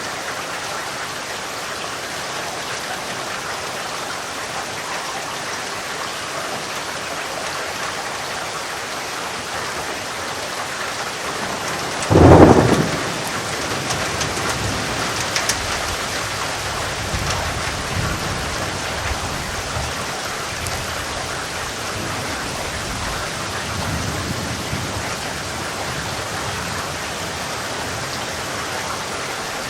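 Steady heavy rain with a thunderclap about twelve seconds in, a sharp loud crack followed by several seconds of rolling low rumble.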